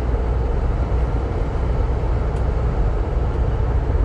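Steady engine and road rumble of a manual car cruising at about 70 km/h in fifth gear as the accelerator is eased off to begin engine braking.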